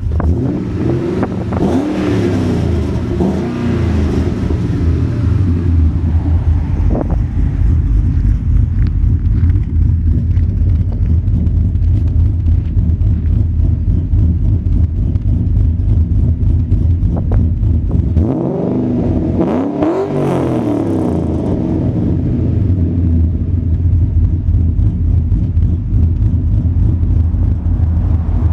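Ford XR8 ute's V8 idling warm through a custom twin 3-inch X-pipe exhaust with hotdog resonators and a single muffler. It is revved up and back down briefly in the first few seconds, then again more strongly about two-thirds of the way through, before settling back to idle.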